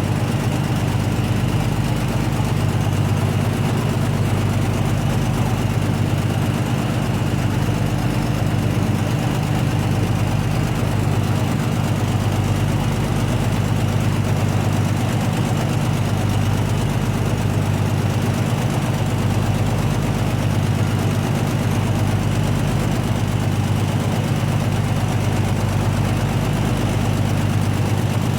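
Vertical wind tunnel for indoor skydiving running at flying speed: a steady loud roar of fans and rushing air over a deep, unchanging hum.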